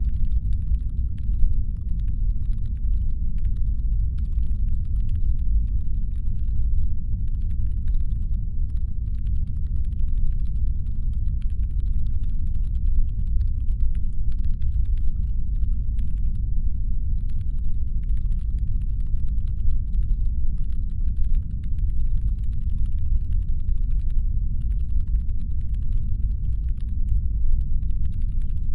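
Deep, steady brown-noise rumble standing in for a spaceship's engine hum. Over it runs a faint, rapid, irregular clicking that comes and goes in patches.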